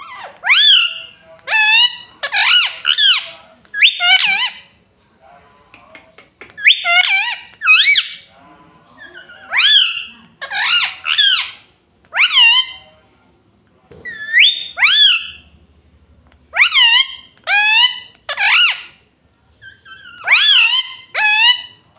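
Indian ringneck parrot calling in repeated high squawks that bend up and down in pitch. They come in short groups of two or three notes, every second or two, with brief pauses between.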